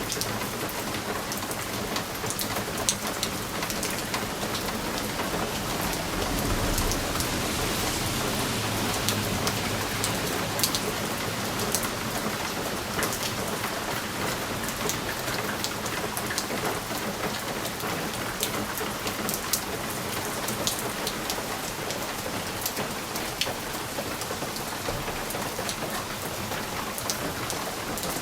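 Steady rain pattering on window glass, a constant hiss with many sharp individual drop ticks. A low rumble swells about six seconds in and fades by about ten.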